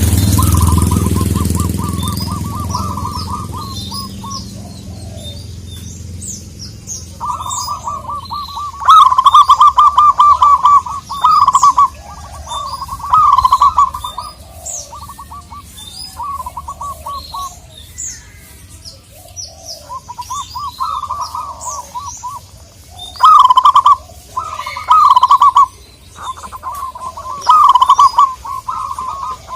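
Zebra doves (local perkutut) calling: repeated phrases of fast, rolling staccato coos, each about a second long, some much louder than others. Short high chirps of small birds run underneath, and a low rumble fades out over the first few seconds.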